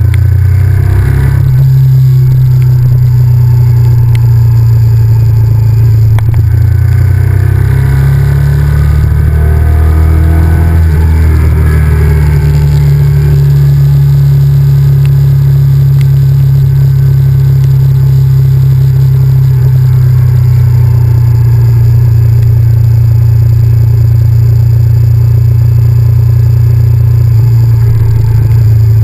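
Honda VTR1000F's 90-degree V-twin engine running while the motorcycle is ridden, loud and close. The engine note shifts down and back up about a third of the way in, then holds steady.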